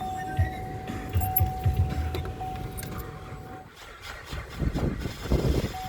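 2011 GMC Acadia's V6 engine cranking over slowly in the cold, in low uneven pulses with a steady high tone over them. Near the end it turns rougher and louder as it just barely catches.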